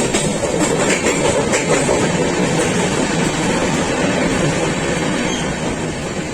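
A train running, heard as a steady, loud rumble of noise with a few sharp clicks in the first couple of seconds.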